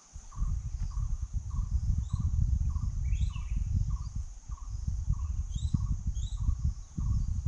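Night chorus of insects: a steady high drone, a short call repeating a little under twice a second, and scattered short rising chirps. From about half a second in, a loud low rumble covers the low end.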